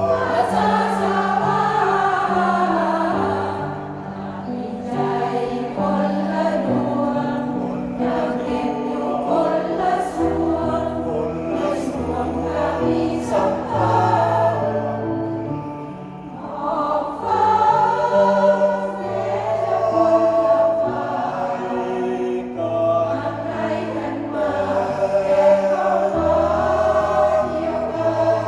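Senior mixed choir singing a piece in several parts over held low accompanying notes, briefly softening twice before swelling again.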